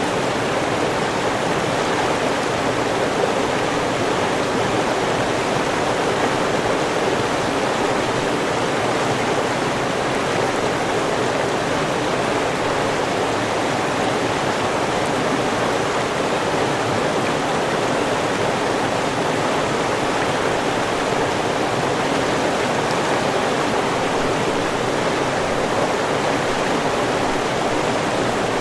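River water rushing and burbling over rocks in a steady, even flow.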